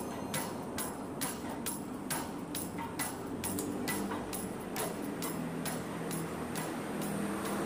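Regular ticking, a little over two sharp ticks a second, over a faint low hum.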